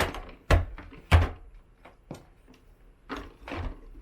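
A series of about six knocks and thumps of things being handled and set down, the loudest about half a second and a second in; no vacuum cleaner is running.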